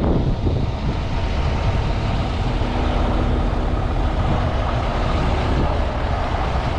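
Heavy-haul semi truck's diesel engine running steadily.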